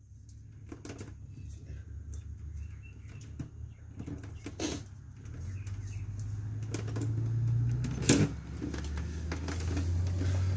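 Scattered light clicks and taps of metal drum-brake parts being handled and fitted, with one sharp click about eight seconds in, over a low steady rumble that swells twice.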